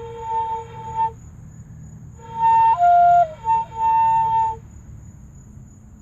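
Fife played by a beginner on a first attempt: two short, halting phrases of whistle-like notes. The first stops about a second in; the second runs for a couple of seconds with a few changes of pitch. The player calls the result terrible.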